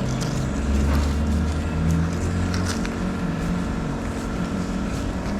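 A steady mechanical hum, like an engine or motor running, with a deeper low part swelling for a couple of seconds near the start and a few faint clicks.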